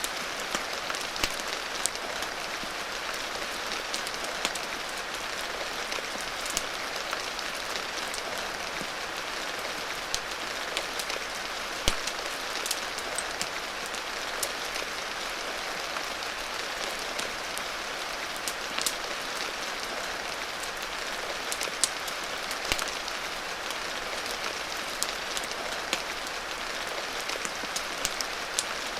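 Steady rain hiss with irregular sharp pops and crackles from a wood fire scattered through it; the loudest pops come about twelve and twenty-two seconds in.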